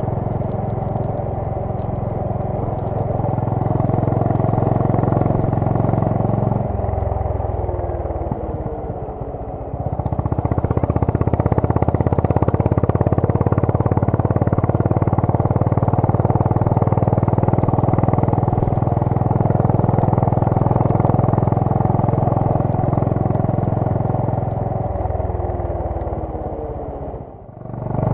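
Honda CB350 RS's single-cylinder engine and exhaust running at road speed. The revs fall away twice. From about a third of the way in the sound is louder and rougher. It dips abruptly just before the end.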